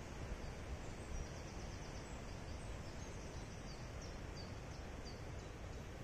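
Faint bird song in a woodland, a series of short high chirps, about two or three a second, over a steady hiss and low rumble of wind and rustling leaves.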